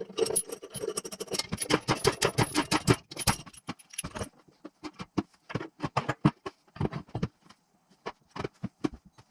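Metal parts and tools clinking and clattering: a dense run of sharp clinks for about four seconds, then scattered single clicks and taps.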